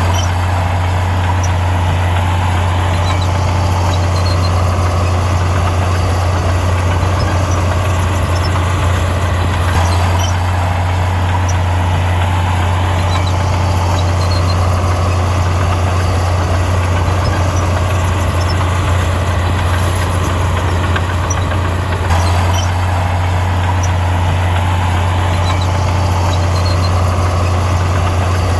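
Heavy earthmoving machine's diesel engine running steadily with a constant low drone and small shifts in load.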